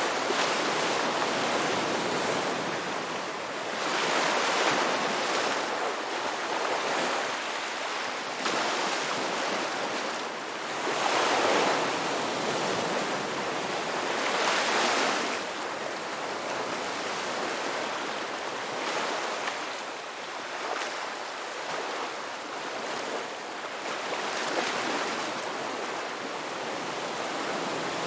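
Ocean waves breaking and washing on a beach, the surf swelling and easing in repeated surges every few seconds, with a light breeze.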